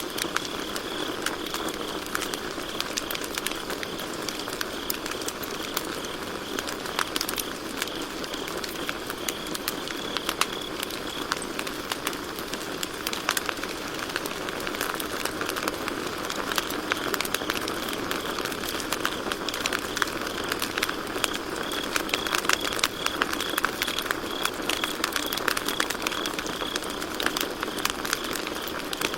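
Campfire crackling and popping steadily, with a constant rush of burning beneath. Crickets chirp in a fast, even pulse, fading back in the middle and returning strongly near the end.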